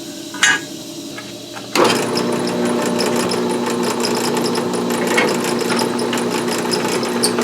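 A drill starts up about two seconds in and runs steadily, drilling bolt holes through quarter-inch steel tabs clamped to the crossmember tube. A light click comes before it.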